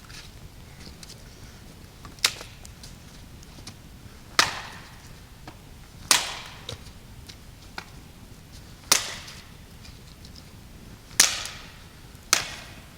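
Wood being chopped: six sharp strikes, one to three seconds apart, each with a short echo.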